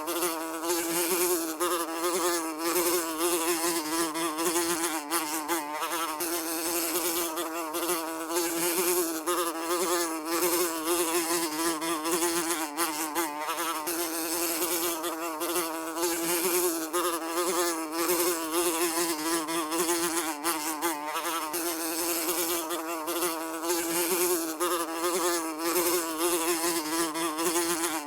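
Housefly buzzing continuously, a steady droning whine with a slightly wavering pitch.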